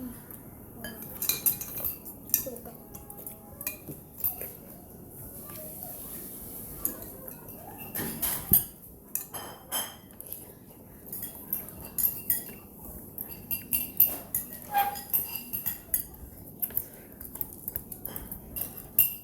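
Cutlery clinking and scraping against a bowl during a meal of Maggi noodle soup, in many short, irregular clicks.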